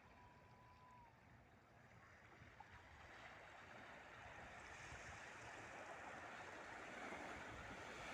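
Wake waves from a passing river cruise ship washing against the riverbank, a soft rushing wash that swells steadily louder from about three seconds in. A faint short whistle sounds at the start.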